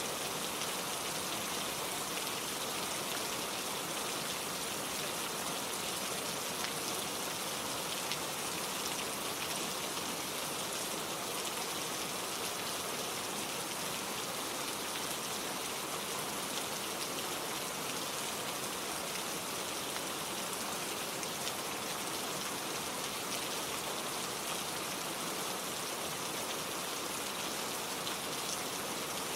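Steady gentle rain falling, with faint ticks of single drops landing on a surface and no thunder.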